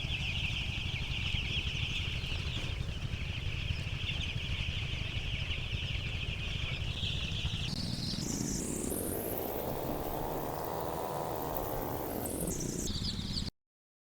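A flock of seven-day-old broiler chicks peeping in a dense steady chorus. About eight seconds in, a sharp upward sweep in pitch takes over, and the sound cuts off abruptly near the end.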